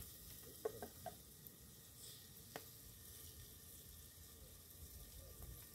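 Faint sizzling of a stew base frying in hot oil in a clay pot over a wood fire, with a few light clicks in the first three seconds.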